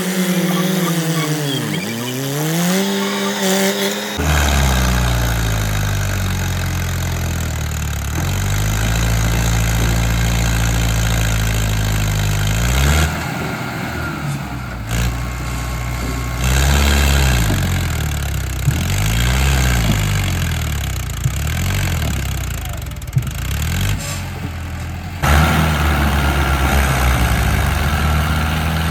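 Mahindra Arjun diesel tractor engine working, its revs dropping and rising several times. The sound changes abruptly a few times, about 4, 13 and 25 seconds in.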